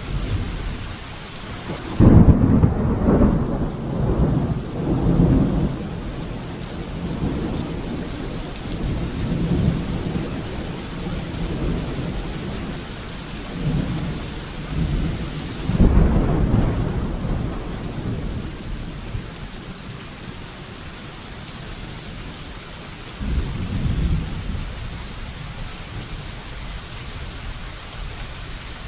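Steady rain with thunder: a sudden loud clap about two seconds in that rumbles on for several seconds, a second clap just past halfway, and a shorter, weaker rumble near the end.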